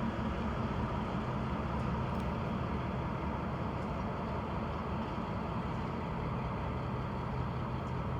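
EMD MP15AC diesel-electric locomotives working hard in Notch 8, full throttle, with a steady, deep engine drone.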